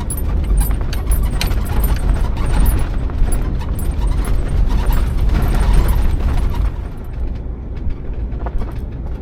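Heavy vehicle rumble with constant metallic rattling and clicking over it, easing a little about seven seconds in.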